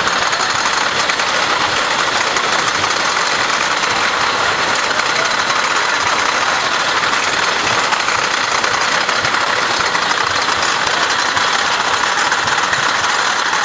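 Lightning Racer wooden roller coaster train running, heard from the front seat as a steady clattering rattle.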